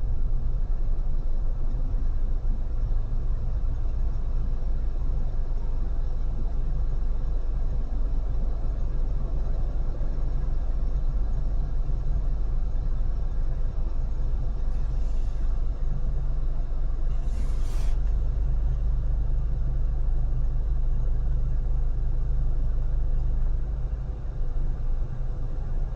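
Steady low rumble of road and wind noise from a car cruising on a freeway. A short hiss sounds about two-thirds of the way in, and the rumble eases slightly near the end.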